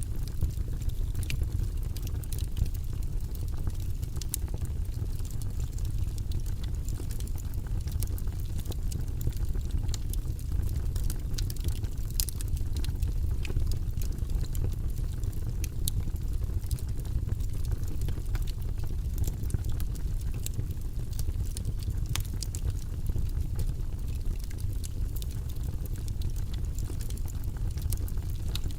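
Wood logs burning in a fireplace: a steady low rumble of flame with frequent small sharp crackles and pops scattered irregularly throughout.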